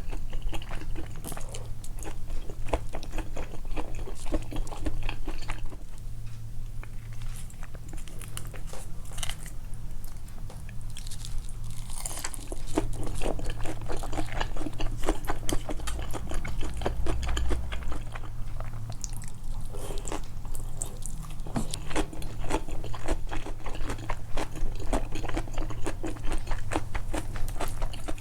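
Close-miked chewing and biting of food, a dense run of small wet mouth clicks and crunches, with the chewing sounds amplified. It is a little quieter for a few seconds about a quarter of the way in.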